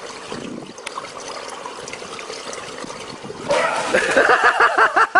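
Steady trickle of running water for about three and a half seconds, then a person's voice breaks in near the end.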